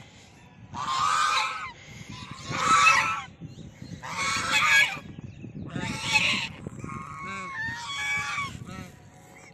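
Geese honking: four loud, harsh calls about a second and a half apart, then quieter overlapping calls near the end.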